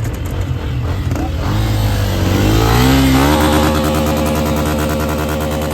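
Dirt bike engine revving: its pitch climbs over about two seconds, then holds steady at high revs.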